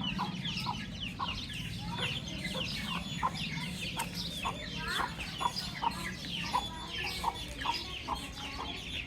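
A flock of baby chicks peeping continuously, many short, high, falling chirps overlapping one another, over a steady low hum.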